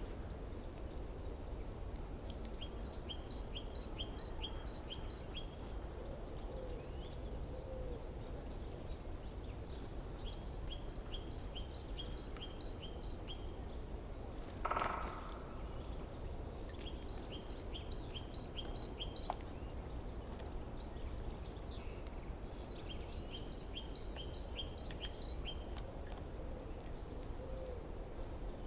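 A small songbird singing a short, rapid trill of about eight notes, repeated four times roughly every seven seconds, with one short lower call about halfway through. A steady low rush runs underneath.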